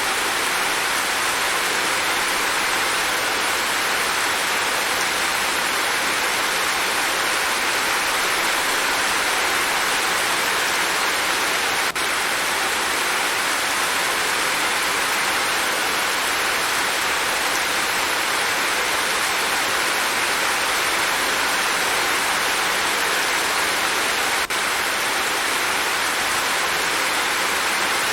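Steady, heavy-sounding rain: an even, unbroken hiss of falling rain with no separate drops, thunder or other sounds standing out.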